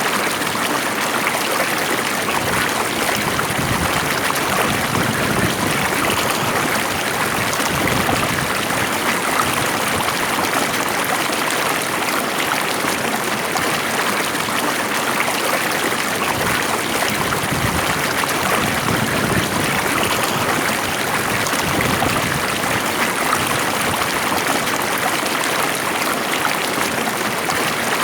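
Water flowing steadily in a stream: an even rushing and trickling with no pauses or changes.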